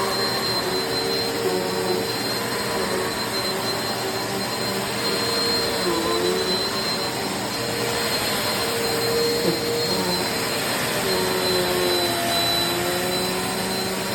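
Eureka MaxSwivel Pro NEU350 upright vacuum cleaner running steadily, its motor giving a high whine over a rushing airflow noise, with slight shifts in pitch as it is pushed about.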